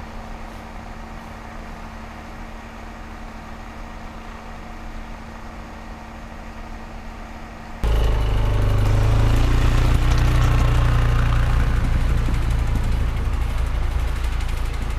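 Suzuki King Quad 500 ATV's single-cylinder four-stroke engine running steadily, then abruptly much louder and deeper about halfway through.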